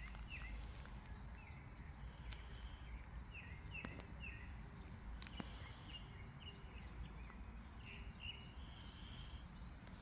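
A bird calling over and over with short chirps that fall in pitch, roughly one or two a second, over a faint low rumble.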